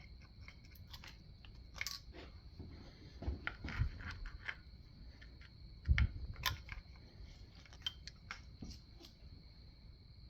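Irregular clicks, clinks and knocks of hand tools and engine parts being handled during an engine teardown, the loudest knock about six seconds in, over a faint steady high-pitched whine.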